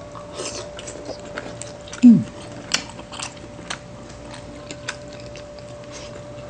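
Close-up eating sounds: chewing and wet mouth clicks as two people eat, with a short falling "mm" hum of enjoyment about two seconds in.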